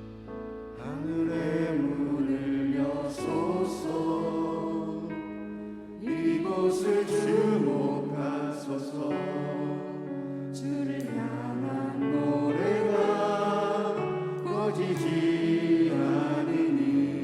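Church praise team singing a worship song over sustained instrumental chords, with several sharp percussion hits.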